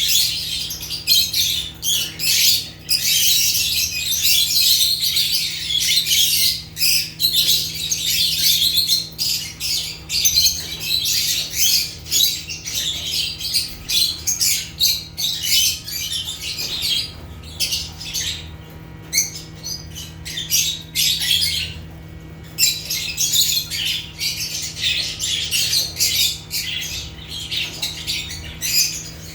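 Several lovebirds (Agapornis) chattering: a dense, rapid run of shrill chirps and squawks with brief lulls, over a faint steady low hum.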